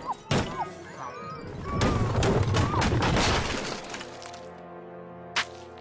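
Cartoon soundtrack: crashing and shattering sound effects with brief squeaky cries over music, then a steady held musical chord with one sharp click near the end.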